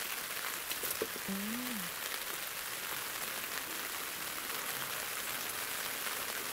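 Steady rain pattering on a tent's fabric roof. About a second in there are a couple of light clicks and a brief hummed voice sound.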